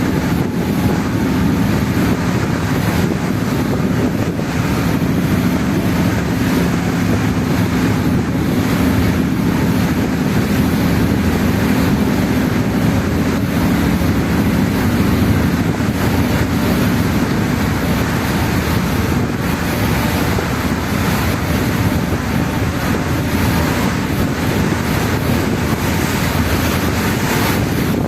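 A passenger ferry's engine gives a steady low drone under way, with wind buffeting the microphone and water washing along the hull.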